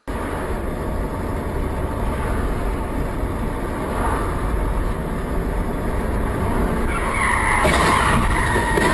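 Car driving with steady engine and road noise, its tyres skidding and squealing in the last two seconds.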